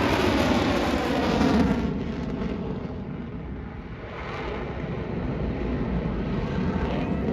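Lockheed Martin F-22 Raptor's twin Pratt & Whitney F119 jet engines during a flyby. The noise is loud at first, with its pitch sliding down, and dies away about two seconds in. It then builds again toward the end.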